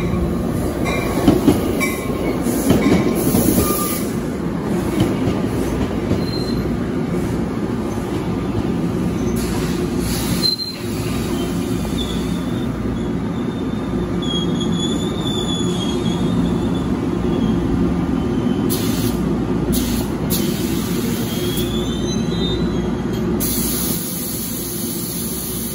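NJ Transit Comet coaches rolling slowly past the platform, with a steady rumble of wheels on rail. Brief high wheel squeals come about midway and again later.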